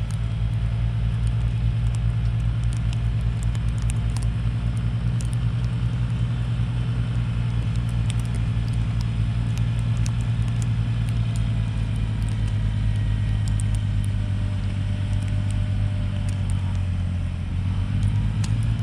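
Mahindra eMax 20S tractor's small three-cylinder diesel engine running steadily, with a brief dip in level near the end before it picks up again.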